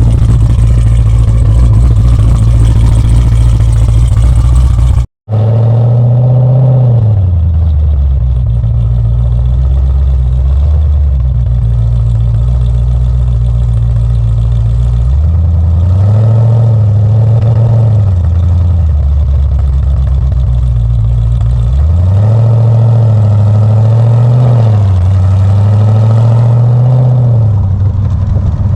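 Exhaust of a cammed Jeep Grand Cherokee SRT's 6.4 HEMI V8 with Stainless Works headers and exhaust, running loud. After a sudden break about five seconds in, the engine note swells up in pitch and settles back several times.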